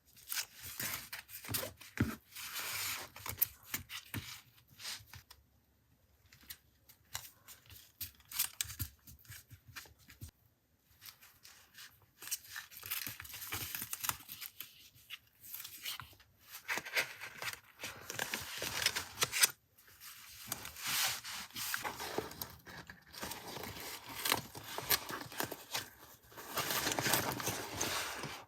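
Paper being worked by hand for a collage: a run of irregular short rustles, tears and scissor snips, louder in stretches around the middle and near the end.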